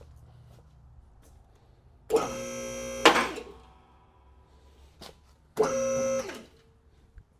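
Two-post car lift's electric pump motor run in two short jogs, about a second and just under a second long, with a steady buzzing hum, raising the car body off its engine and transmission; the first run ends with a sharp clunk.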